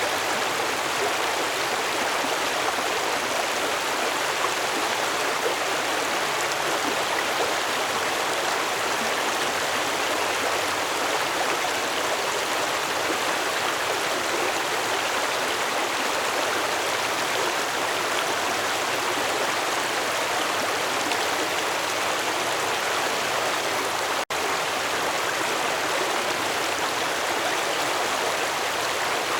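Stream water flowing and splashing in a steady, even rush. The sound cuts out for an instant about 24 seconds in.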